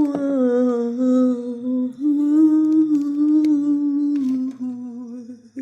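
A woman humming a slow, wordless melody in long held notes, with short breaks about two and four seconds in.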